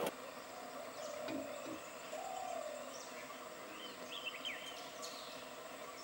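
Outdoor field ambience: a steady faint hiss, a faint wavering tone between one and two and a half seconds in, and a short cluster of high, faint bird chirps with falling glides about four seconds in.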